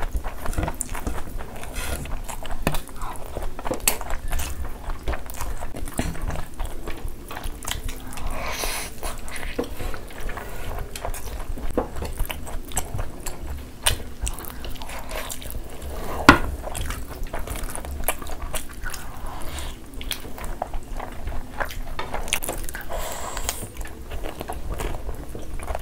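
Close-miked eating sounds of rice, curry and mutton eaten by hand: chewing, biting and wet mouth smacks made up of many small clicks, with one sharper click about 16 seconds in.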